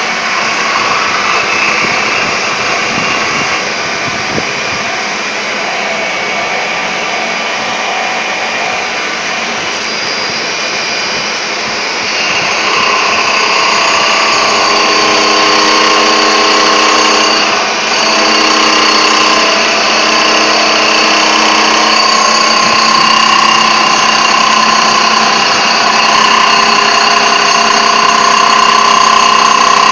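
Power tool grinding the profile into the edge of a marble slab: a steady, loud whine with grinding noise that grows louder about twelve seconds in, with a brief dip a few seconds later.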